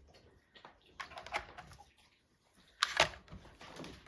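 Light clicks and taps of eggs and fingers against a clear plastic egg carton, in a cluster about a second in and a sharper group near the end.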